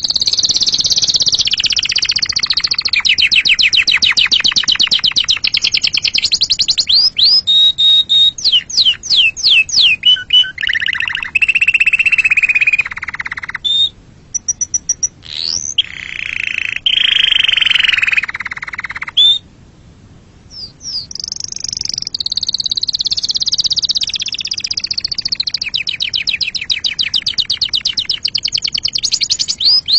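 Domestic canary singing a long, loud song of rapid trills and rolls with quick sweeping notes. It breaks off briefly twice near the middle, then carries on.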